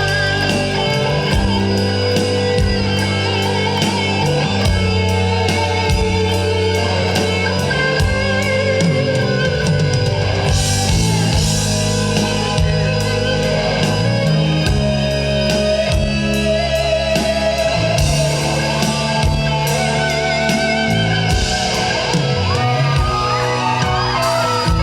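Live rock band playing an instrumental passage: electric guitar over drum kit and bass, with a steady beat.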